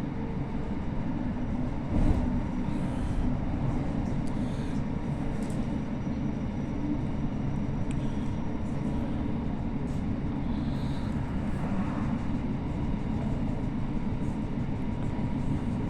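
Passenger train running along the track, a steady low rumble of wheels and carriage heard from on board, with a single sharp knock about two seconds in.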